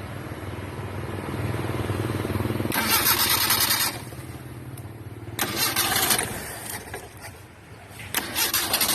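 An old car's engine is being started and run. Under a steady low running sound come three loud bursts of about a second each, roughly two and a half seconds apart.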